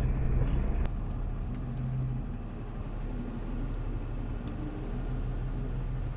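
Automated sideload garbage truck's engine running, heard from the driver's seat as a steady low hum. It gets a little quieter about a second in.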